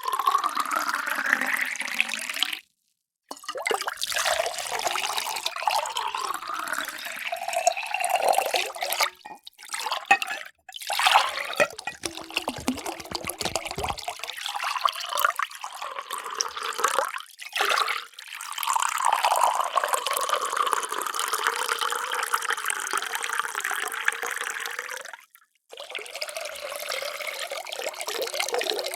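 Water poured into a series of containers, in several separate takes split by brief silent cuts. In some pours the pitch rises steadily as the vessel fills.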